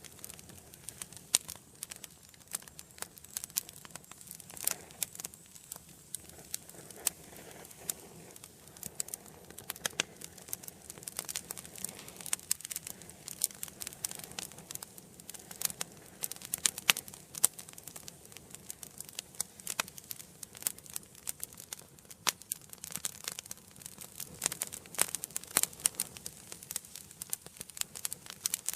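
Wood fire burning in an indoor fireplace: a steady, irregular crackling of small pops and snaps over a soft hiss of flame.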